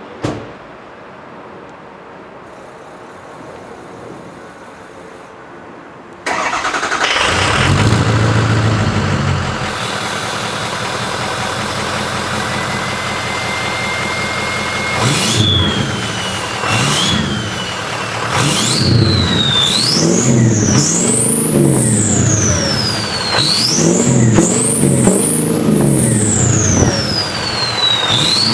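A Ford F-250's 6.0 L Power Stroke V8 turbo-diesel with a 4-inch straight exhaust starts about six seconds in, idles, then is revved repeatedly from about halfway through. A high turbo whistle rises and falls with each rev.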